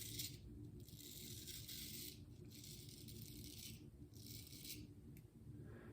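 Razor scraping through lathered stubble in four strokes, each about a second long, with short pauses between them.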